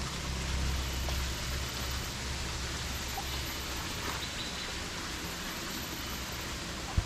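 Outdoor garden ambience: a steady hiss with a few faint bird or insect chirps, under a low rumble that fades out about halfway. A single sharp thump near the end.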